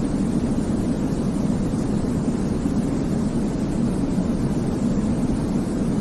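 Continuous white noise for baby sleep, deep in pitch with little treble, an even hiss that never changes.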